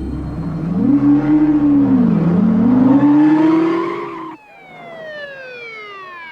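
Car engine revving hard, its pitch climbing, dipping about two seconds in as it shifts, then climbing again. It cuts off abruptly and is followed by a high whine sliding steadily down in pitch as a car speeds past.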